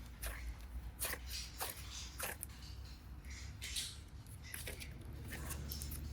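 Hands pressing and squishing slime and clay: a string of irregular soft clicks and squelches, roughly two a second, over a steady low hum.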